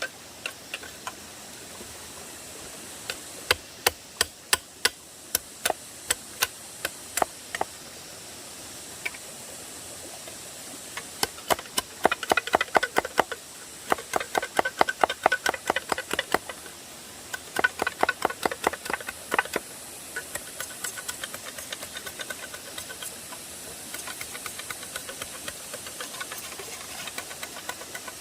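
Hand hammering on a building job: a series of sharp strikes with a metallic ring. They are spaced out at first, then come in fast runs of about five a second, over a steady hiss.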